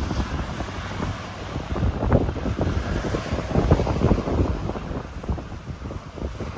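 Strong wind buffeting the microphone in irregular gusts, over the steady wash of ocean waves.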